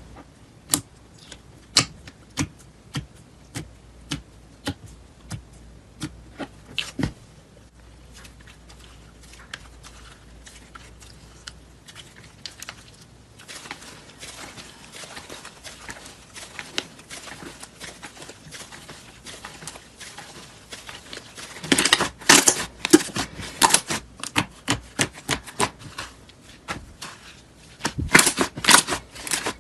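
Slime being handled close to the microphone. It starts as a run of sharp clicking pops, one every half second or so. From about seven seconds in it turns to a fine, dense crackling, with louder bursts of crunchy crackles in the later part.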